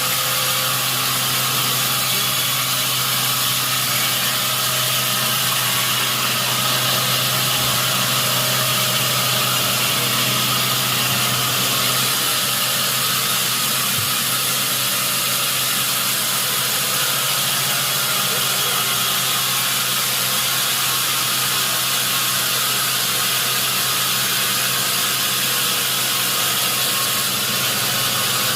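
Sawmill machinery running steadily: a constant motor hum under a loud high hiss, unbroken throughout.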